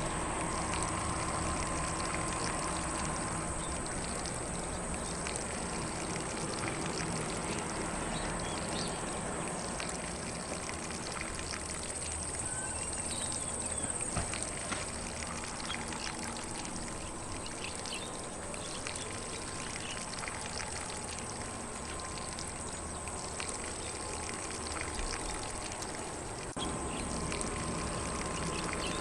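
Lawn sprinkler spraying water across grass, a steady even hiss, with faint bird chirps here and there.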